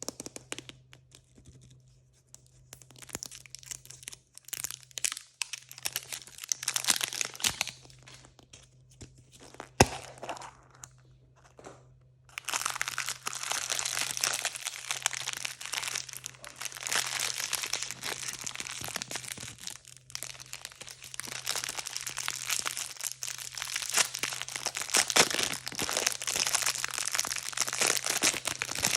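Blind bag packaging being torn open and crinkled by hand: scattered rustles and tearing at first, with one sharp snap about a third of the way in, then steady dense crinkling from a little before halfway.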